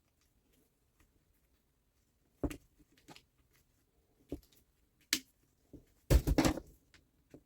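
Saw parts and tools being handled on a workbench: a few separate clicks and knocks, then a louder burst of clattering about six seconds in.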